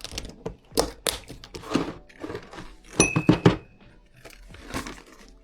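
Plastic pet-food packets crinkling and rustling, with knocks of containers being handled and one short clink about three seconds in, as cat food and treats are portioned out.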